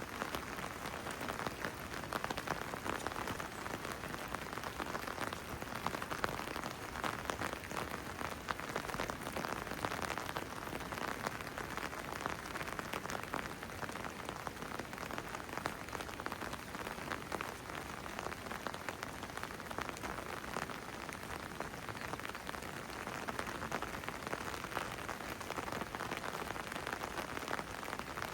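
Steady rain falling, with many individual drops ticking through a constant hiss.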